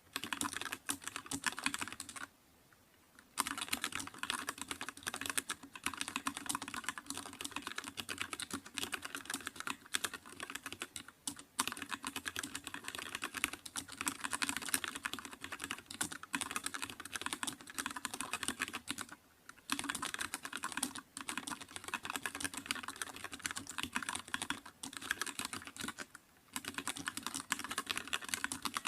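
Rapid typing on a computer keyboard: a fast, continuous run of keystroke clicks, broken by a pause of about a second near the start and a couple of shorter pauses later.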